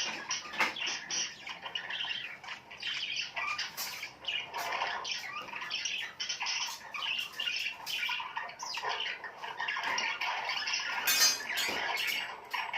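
Many small birds chirping and squawking together in a dense, overlapping chatter, with one louder harsh call about 11 seconds in.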